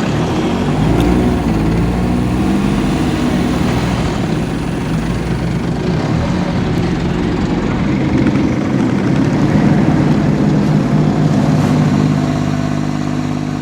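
Engine of a small river boat running steadily as the boat gets under way.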